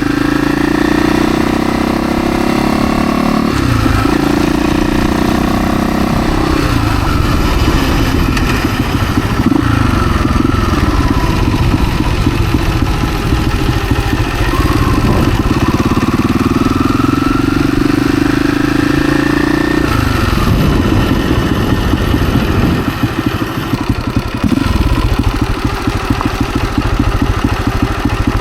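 Husaberg FE 350 dirt bike engine running under way. Its pitch rises in several long pulls and drops back between them, then it runs choppier and lower near the end.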